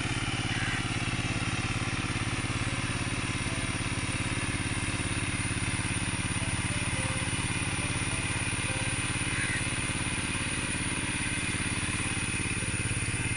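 Power tiller engine running steadily under load while tilling a paddy field.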